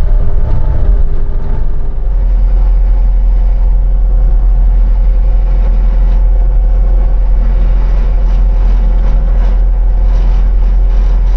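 An engine running steadily: a loud, even drone with a low rumble that grows stronger about two seconds in.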